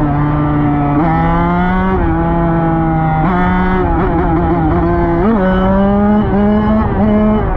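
Dirt bike engine running hard under throttle, its pitch stepping up and dropping back several times as the rider works the throttle and gears.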